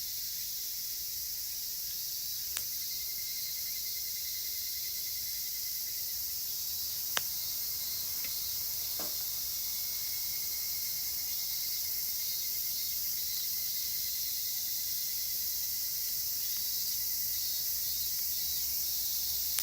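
Dense chorus of cicadas making a steady shrill hiss, with a thinner trilling tone coming and going beneath it. A wood campfire pops sharply two or three times.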